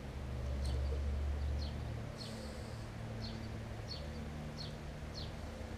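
A bird calling nearby with a short, high, falling chirp repeated over and over, a little more than once a second. Under it a low rumble that fades about two seconds in.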